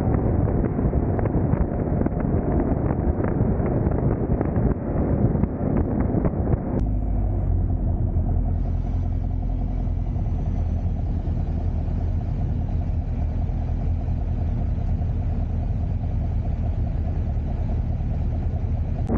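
Car engine and exhaust rumble with a crackly, uneven texture; about seven seconds in it cuts abruptly to a steady low drone of a car cruising, engine and road noise.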